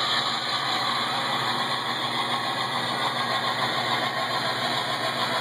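Recorded diesel locomotive engine sound running steadily from a model train's sound-unit speaker, thin with no deep bass.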